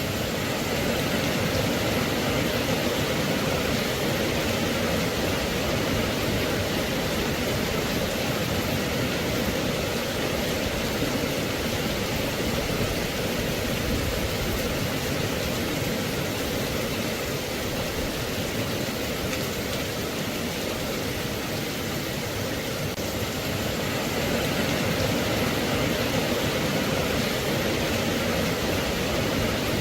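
Steady rain, an even hiss with no separate drops, thunder or other events standing out.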